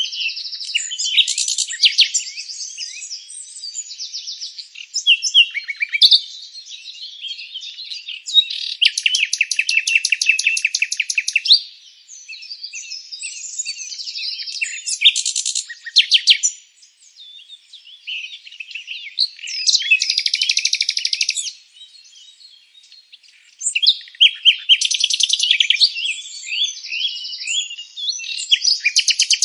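Songbirds chirping and singing: a mix of short high chirps and rapid trills, the trills coming in bursts of one to three seconds every few seconds.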